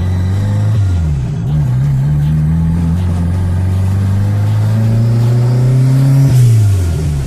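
Fiat Uno's turbocharged 1.6-litre engine, running 10 psi of boost, heard from inside the cabin. The revs dip about a second in, then climb steadily for about five seconds under acceleration, and fall away sharply near the end with a short hiss.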